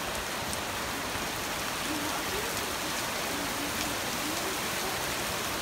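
Steady heavy rain falling on a wet paved street and parked car, an even, unbroken hiss.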